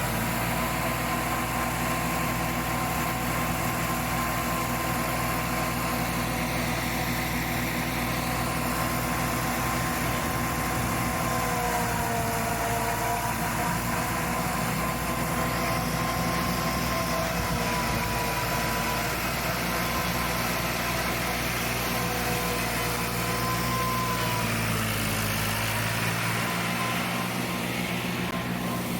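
Fiat 480 tractor's diesel engine running steadily, with a chaff cutter hooked up to it, and a whine that wavers a little in pitch. About 25 seconds in the engine note shifts lower.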